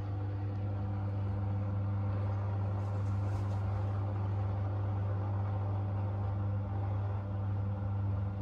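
Front-loading washing machine running with a steady low hum at constant speed.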